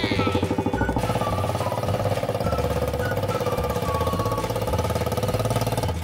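A motorbike engine running steadily with a fast, even pulse.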